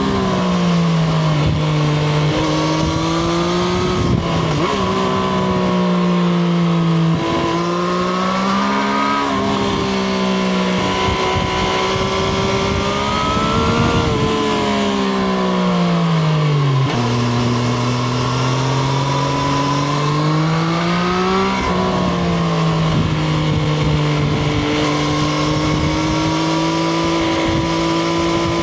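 Triumph Street Triple RS's 765 cc inline three-cylinder engine heard from onboard, pulling through the revs and backing off again several times. The pitch drops sharply at each upshift, about four seconds in, near seven, near nine and near seventeen seconds, then settles into a steady drone near the end.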